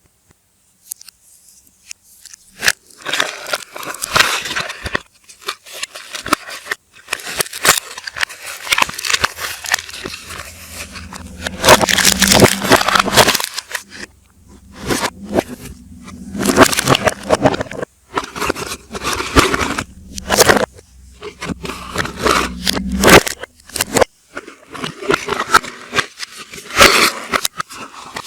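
Packaging of TEO soap bars being handled during unpacking: crinkling, rustling and scraping of wrapping in irregular bursts, played backwards. It starts after a near-silent first two seconds or so.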